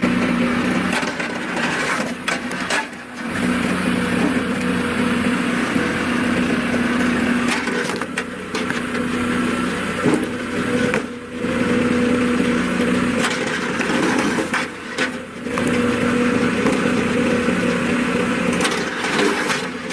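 Homemade lever-operated wood splitter at work: logs cracking and splintering as the push plate drives them onto the splitting blade, over a steady machine hum that dips briefly a few times.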